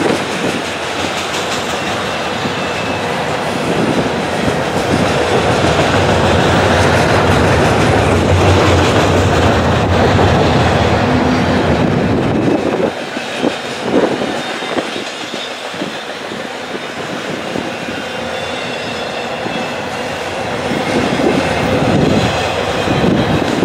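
Double-stack intermodal freight cars rolling past: a steady rumble and clatter of steel wheels on rail. About halfway through it gets a little quieter, with sharper separate clicks.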